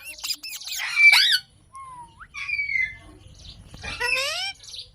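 Pet green parrot, an Indian ringneck, giving a string of short squawks and chirps that rise and fall sharply in pitch. The loudest is about a second in, and a longer call comes near the end.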